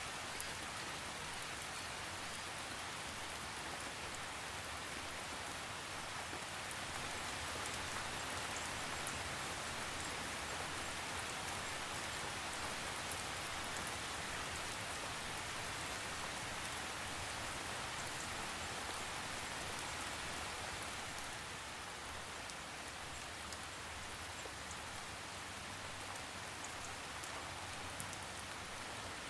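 Steady rain falling, an even hiss with scattered drop ticks, with no thunder. It swells slightly a few seconds in and eases back about two-thirds of the way through.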